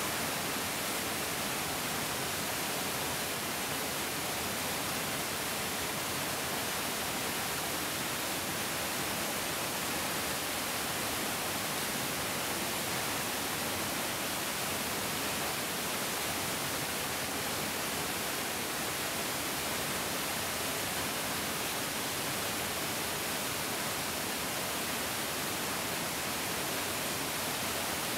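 Large mountain stream flowing: a steady, even rush of water with no breaks or changes.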